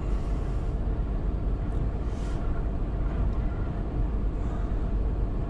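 Storm-force wind buffeting a truck cab: a steady low rumble and roar, with a brief hissing gust about two seconds in.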